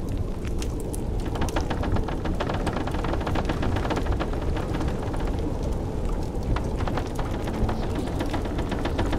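Wood fire crackling with many sharp pops, coming in thick runs about two seconds in and again near seven seconds, over a steady low rumble of blizzard wind.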